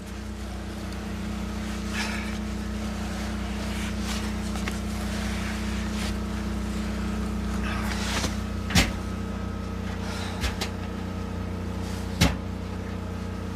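An engine running steadily at a constant speed, with a few sharp knocks over it, two of them louder, in the second half.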